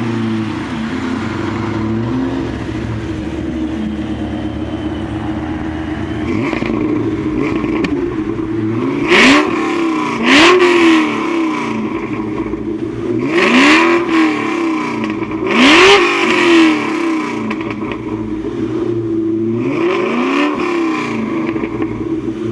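Supercharged 2003 Mustang Cobra 4.6-litre V8 with a Kenne Bell twin-screw supercharger, long-tube headers and cat-back exhaust, idling and then revved in about five short blips, each rising sharply and dropping back to idle.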